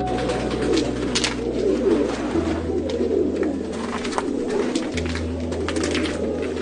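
Several Baku pigeons cooing at once in a steady, overlapping murmur, with scattered short clicks and taps among them.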